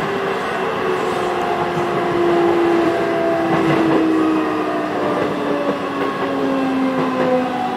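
Running sound inside a Hokuso 7800-series train car, carrying the whine of its Toyo GTO-VVVF inverter drive: several tones fall slowly and steadily in pitch as the train slows. Steady wheel and track noise runs underneath.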